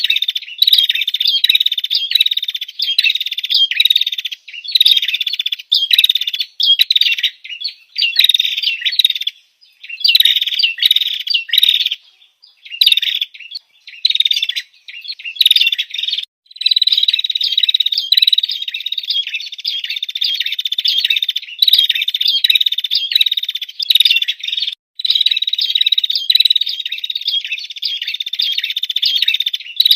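Female prinia (prenjak) calling, used as a lure to draw in males: a rapid, continuous stream of high, sharp chirping notes in quick repeated phrases, broken by a few short pauses.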